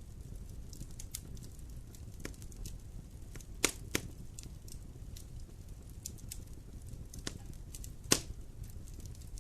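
Wood fire burning in a fireplace: a low steady rumble of flames with scattered small crackles and a few sharp pops, two close together about four seconds in and one loud pop about eight seconds in.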